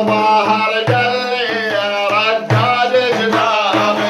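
A man singing a Middle Eastern folk song in long, wavering notes over a steady low drone, with drum strokes at intervals.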